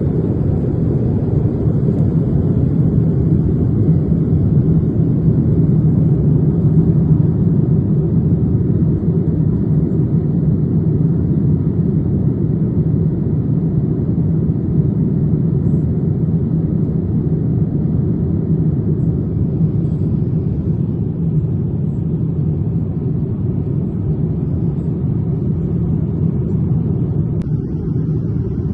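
Steady low drone of an airliner in flight heard inside the cabin: engine and airflow noise, even and unbroken.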